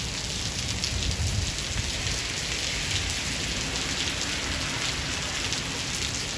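Steady rain falling hard on surfaces, an even hiss, with a low rumble of thunder swelling briefly about a second in.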